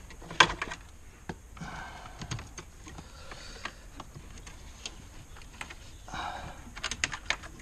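Small plastic wiring plugs and adapters clicking and rattling as they are handled, with a sharp click about half a second in and a quick run of clicks near the end.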